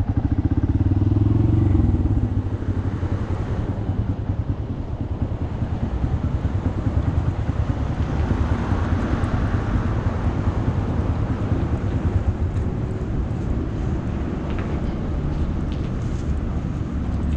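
Honda Monkey's small single-cylinder engine running as the bike is ridden. Its note rises in the first couple of seconds, then it runs steadily.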